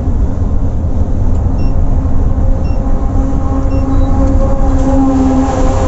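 Volvo B8R coach's diesel engine and road noise, a steady heavy rumble; about halfway through a humming engine note comes up and climbs slightly as the bus pulls.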